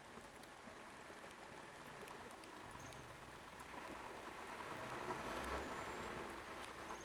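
Steady rain falling, gradually getting louder, with a low vehicle engine hum underneath and a few small drips or taps.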